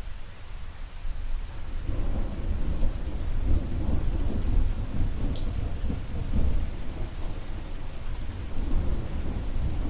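Steady rain with a low rumble of thunder that swells about two seconds in and rolls on.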